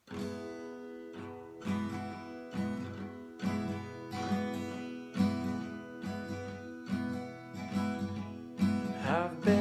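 Acoustic guitar strummed in a steady rhythm, about one strum every 0.85 seconds, starting suddenly out of silence. Near the end a short sliding, voice-like sound comes in over the chords.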